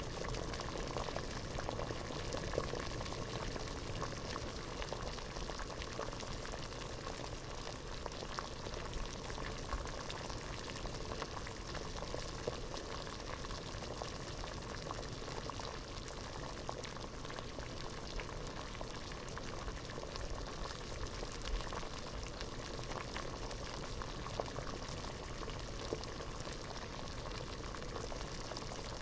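Water boiling in a pot, a steady dense bubbling with many small pops.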